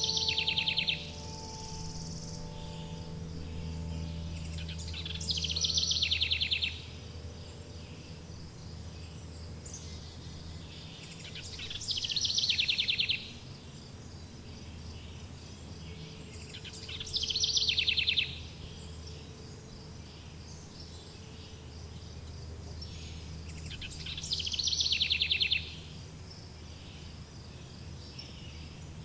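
A songbird repeats a short, rapid trilled song about every six seconds, five times, over a steady high insect drone and a low rumble of ambience. Wind-chime tones ring out and fade during the first few seconds.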